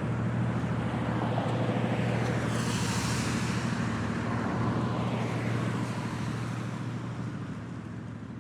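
Steady low mechanical hum of underground machinery, with a hissing rush that swells and dies away about three seconds in. The whole sound slowly fades toward the end.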